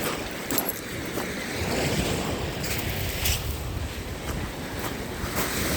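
Small Lake Ontario waves washing onto the beach, with wind buffeting the microphone as a low rumble.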